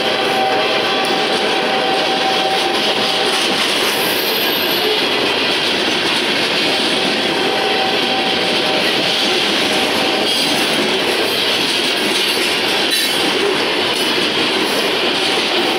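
Loaded covered hopper cars of a freight train rolling past close by: a steady, loud rumble of steel wheels on the rails. A thin, steady wheel squeal comes and goes, in the first few seconds, again midway, and near the end.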